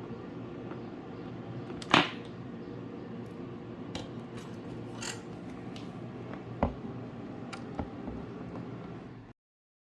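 Sharp clicks and taps from handling the monitor's circuit board, screws and tools: one loud click about two seconds in and a few fainter ones after, over a steady low hum. The sound cuts off suddenly near the end.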